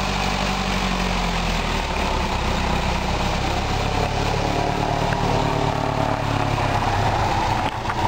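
Piper Cherokee 140's four-cylinder piston engine running steadily at low power, its pitch shifting slightly a couple of times.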